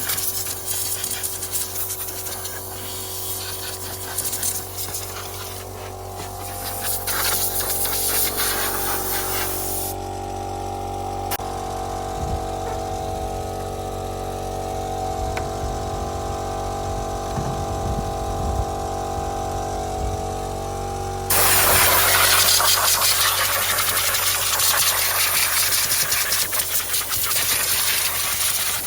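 Steam cleaner jet hissing as it sprays, cutting out about ten seconds in and starting again, louder, about two-thirds of the way through, over a steady machine hum.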